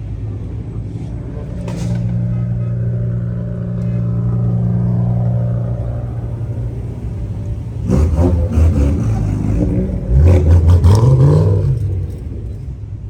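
Car engine running with a steady drone, then revved hard twice, about eight and ten seconds in, the second rev climbing in pitch and dropping back.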